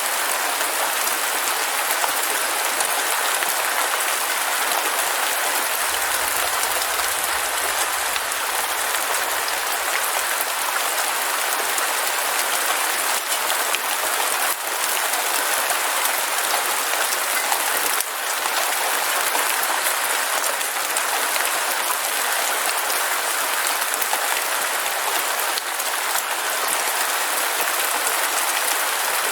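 Heavy rain falling steadily: an even hiss flecked with scattered drop ticks. A faint low rumble comes in about six seconds in and lasts some four seconds.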